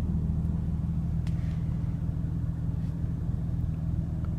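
Porsche Cayman GTS's 3.4-litre flat-six idling steadily, a low even hum heard from inside the cabin.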